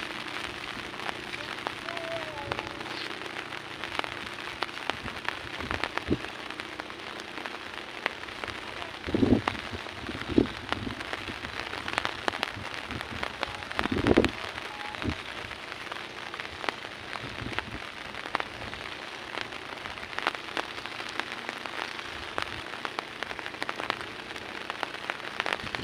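Rain falling steadily, with many sharp drop hits close to the microphone and a few duller thumps about nine, ten and fourteen seconds in.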